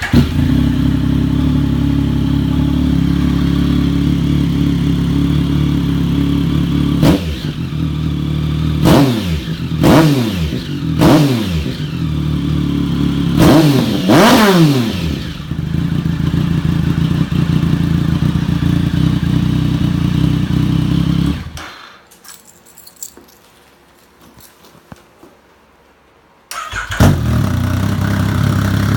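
Three-cylinder sport motorcycle engine with a slip-on exhaust starting, idling, then revved in about six quick throttle blips, each rising and falling back to idle. It idles again and is shut off. After about five seconds of quiet, a second three-cylinder motorcycle starts and idles.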